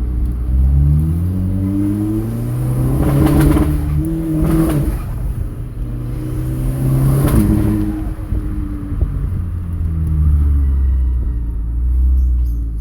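VW turbocharged four-cylinder engine revved up and let back down several times, its pitch rising and falling. The engine has a misfire on cylinder 4, which the owner traces to a wrong, cracked spark plug.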